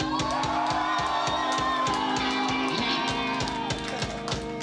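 Live rock band playing: electric guitars holding sustained chords over bass and a steady drum beat of about four strokes a second.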